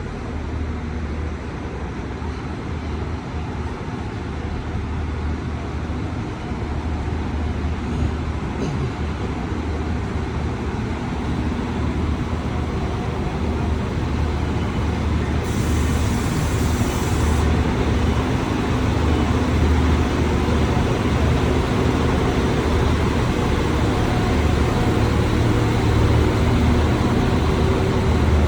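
Low, steady hum of a large vehicle engine running close by, growing gradually louder, with a brief high hiss about halfway through.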